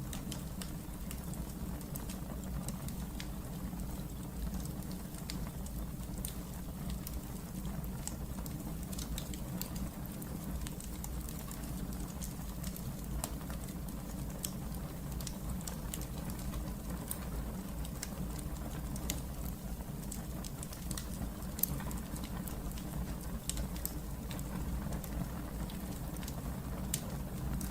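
Fire crackling in a fireplace: a steady low rumble of the burning fire with frequent small crackles and pops scattered throughout.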